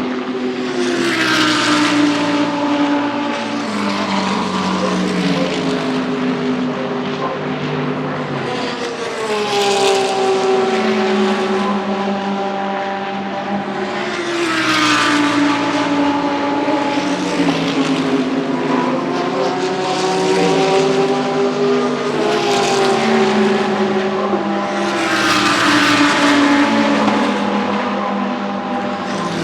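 GT3 race cars passing one after another at speed, each engine note swelling and then dropping in pitch as it goes by, about five passes with other engines still audible in between.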